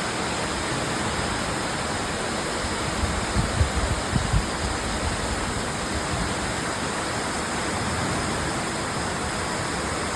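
Heavy rain pouring down in a steady hiss. A few low thumps come about three to four seconds in.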